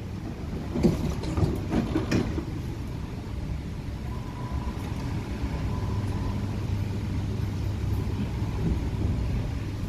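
Inside an MTR K-Train carriage pulling away: a few clunks about a second in, then a steady low hum of the train getting under way, with a faint tone appearing about four seconds in.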